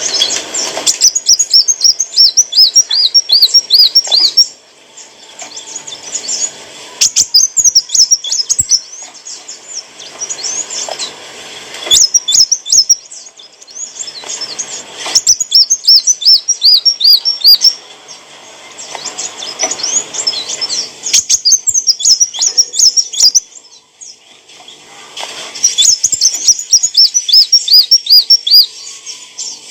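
Kolibri wulung sunbird singing: loud bursts of rapid, repeated high chirping notes that rise and fall, with a pause of a second or two between bursts.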